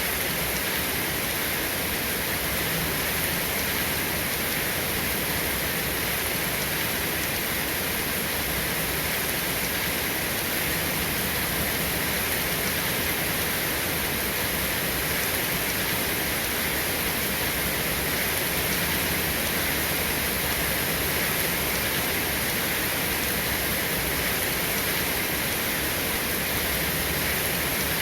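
Steady rain falling, an even hiss with no distinct drops or thunderclaps standing out.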